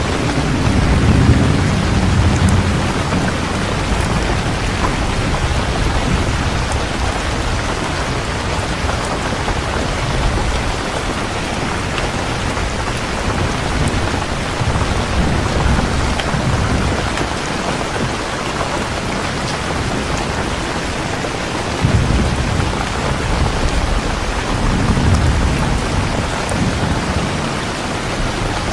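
Heavy steady rain with rolls of thunder: low rumbles swell near the start, again in the middle, and twice more in the last third, one coming on suddenly.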